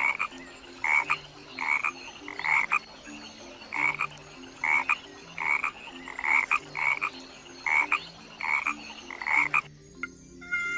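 A frog croaking repeatedly, short croaks about one to two a second, stopping shortly before the end, where a few musical tones begin.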